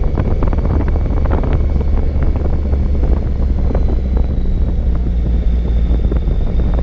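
Motorcycle riding along with heavy wind noise buffeting the microphone over a steady low engine drone.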